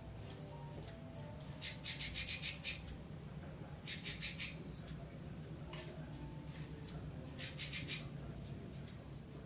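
The bird known to Indonesian bird keepers as 'klik klik' calling in rapid rattling runs of clicks ('besetan'). There are three short runs of quick, evenly spaced clicks, over a steady low hum and a constant high whine.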